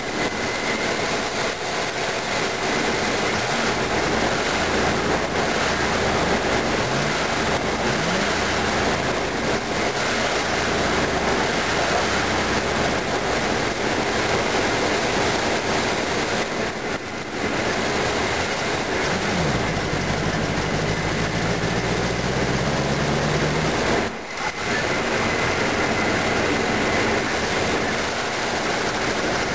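Chevrolet 305 small-block V8 running with a loud mechanical clatter, its pitch rising a few times as it is revved and held up for a few seconds past the middle. The owner puts the clatter and lack of power down to a timing chain that has skipped a tooth, knocking valves and worn camshaft lobes.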